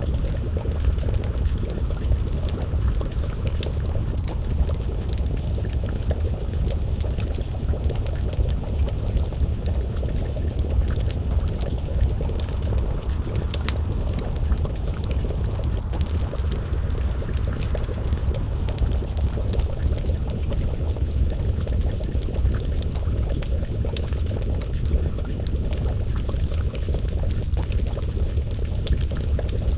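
Wood fire crackling, with many small pops, over a steady low rumble, and a pot of stew bubbling as it simmers over the flames.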